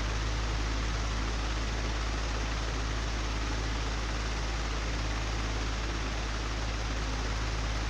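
An old, broken electric fan running steadily: a low hum with a fast, even flutter in it, under a constant rushing hiss.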